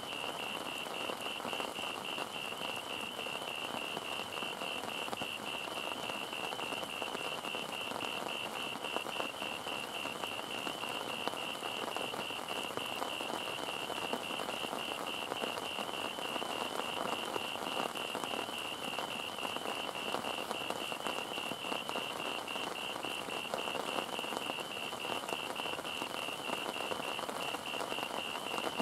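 Heavy rain falling steadily on surfaces. Over it runs an unbroken, rapidly pulsing high-pitched call.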